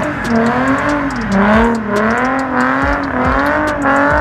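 Nissan 350Z's 3.5-litre V6 held at high revs, its pitch wavering up and down with the throttle while the rear tyres spin in a smoky burnout.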